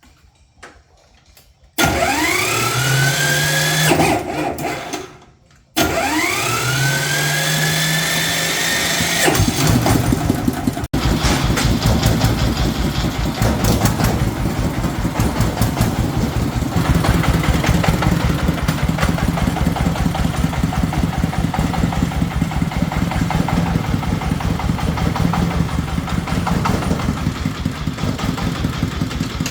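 An engine is started with an electric starter: a whine that rises quickly in pitch, stops, then a second attempt about six seconds in. The engine catches near ten seconds in and settles into a steady, rapidly pulsing idle.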